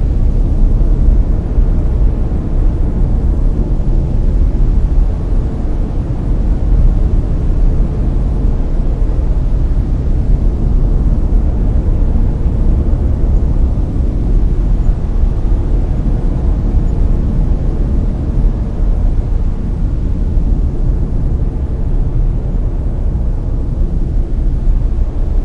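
Steady layered brown noise: a deep, even rumbling hiss with most of its weight in the low end, unchanging throughout.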